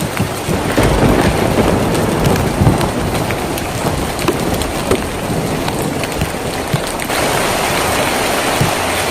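Steady rain falling on a tin roof, with many individual drops ticking and a low rumble of thunder about a second in. About seven seconds in the sound changes abruptly to a denser, heavier rain.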